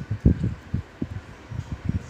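Soft, irregular low knocks and bumps, a few a second: hands handling a washing-machine clutch assembly while greasing it.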